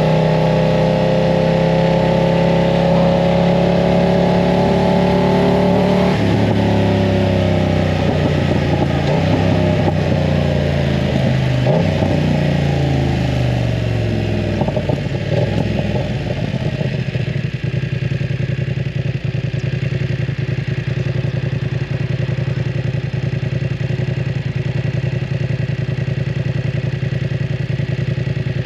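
BMW F900 R's parallel-twin engine through a full aftermarket exhaust. It runs at a steady, slowly rising pitch, then the pitch falls over several seconds as the bike slows. From a little past halfway it settles into a steady low idle.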